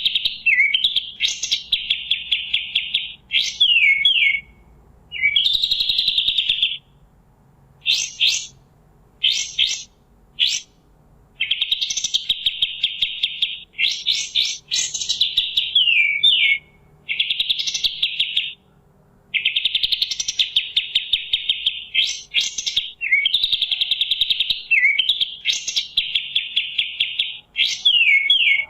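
Kapas tembak songbird singing: long, fast rattling trills about one to two seconds each, repeated over and over with brief falling whistled notes and sharp single chips between them.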